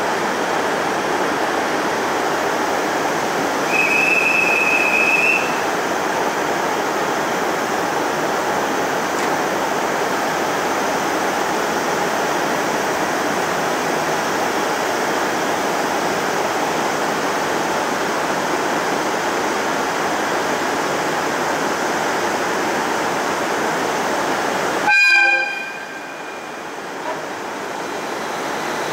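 JR East 701 series electric train departing: a steady rushing noise from the train, with one short high-pitched tone signal lasting about a second and a half about four seconds in. Near the end a brief sharp sound with a ringing tone, after which the steady noise drops away suddenly.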